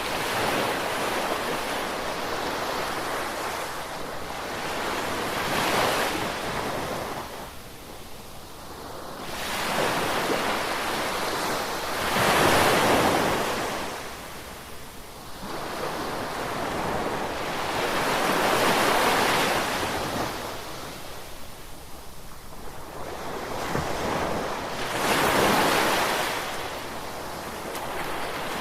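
Ocean waves breaking, the surf rising and fading in slow swells about six seconds apart.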